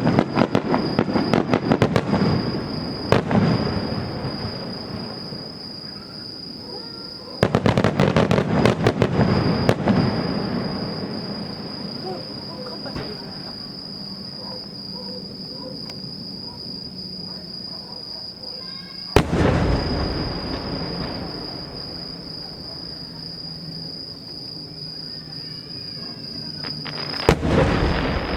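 Aerial fireworks going off: rapid crackling salvos at the start and again about 7 to 10 seconds in, then single booming bursts about 19 and 27 seconds in. A steady high insect trill, likely crickets, continues between them.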